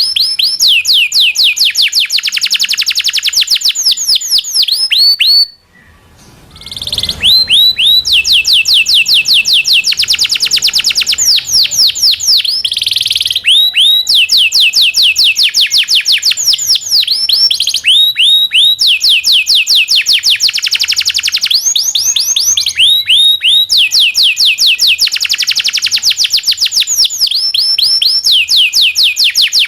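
Domestic canary singing loudly and continuously in long rolling trills: fast runs of repeated down-sweeping notes, each run lasting a few seconds before switching to another note type, with a brief break about six seconds in.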